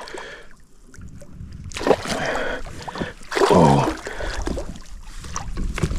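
Water splashing and sloshing beside a kayak as a big northern pike thrashes at the landing net, with the loudest surges about two and three and a half seconds in.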